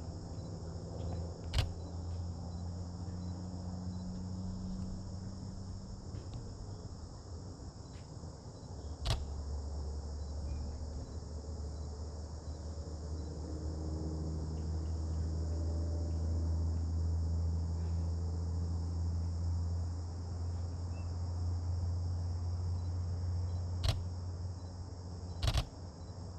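Steady high-pitched chorus of crickets in the background, over a low steady rumble, broken by a few single sharp clicks of a camera shutter spread through the scene.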